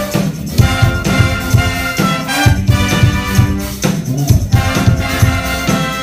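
Brass band playing live: horns carrying a melody over a steady, pulsing bass line and percussion.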